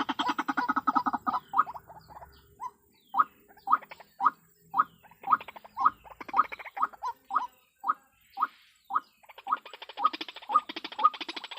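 White-breasted waterhen calls: a fast rattling series of notes at first, then short croaking notes repeated about twice a second, with a faster pulsed run of calls building again near the end.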